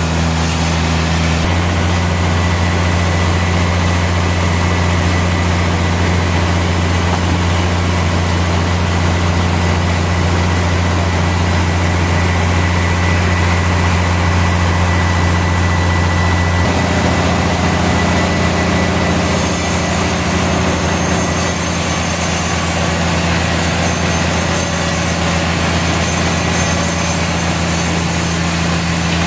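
Sawmill machinery running with a steady low drone under a broad mechanical noise. The tone shifts abruptly about a second and a half in and again about seventeen seconds in.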